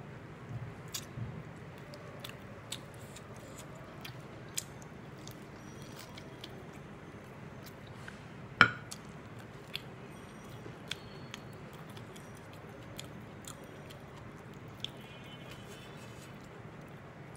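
A person eating meat khichuri by hand: close, wet chewing and mouth clicks. There is one sharp, louder click about halfway through.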